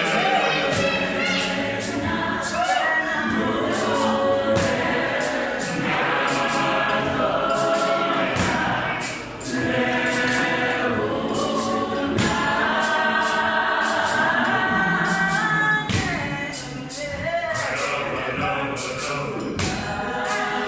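Gospel choir singing in harmony over a steady percussive beat.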